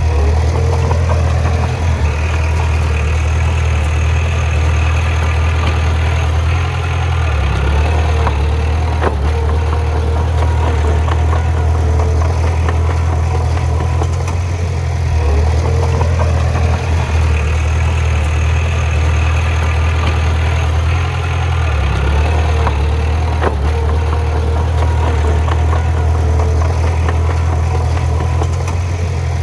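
Bulldozer's diesel engine running steadily at working load, its note dipping briefly three times.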